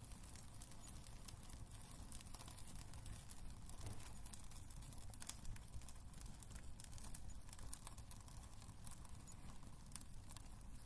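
Wood fire in a fireplace crackling: irregular small pops and snaps over a low, steady rumble and hiss.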